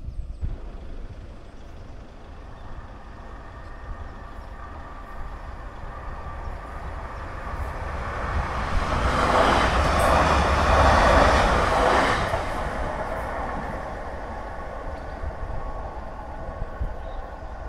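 A train passing over the level crossing: its running noise builds, is loudest for about three seconds near the middle, then fades away.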